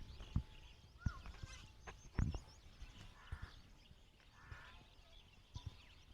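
Birds chirping with quick high twitters, among scattered knocks and two short raspy buzzes in the middle.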